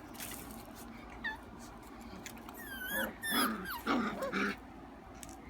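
Several F1b doodle puppies, almost five weeks old, whining and yipping in high, wavering cries. There is one short cry about a second in, then a burst of overlapping cries in the middle.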